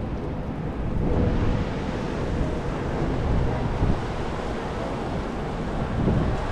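Wind buffeting the microphone in a steady low rumble, growing louder about a second in.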